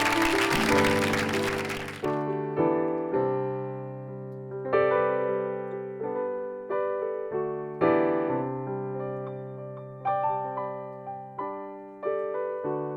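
Applause dies away in the first two seconds, then slow solo piano music: single notes and chords struck and left to ring out.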